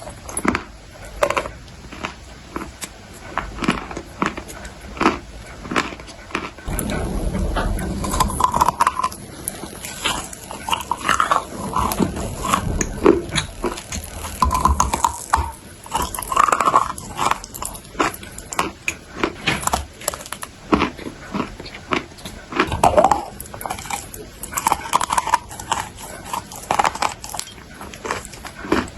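Close-up biting and chewing of dry clay: repeated sharp crunches and crackles as it breaks between the teeth, with wet mouth sounds in between.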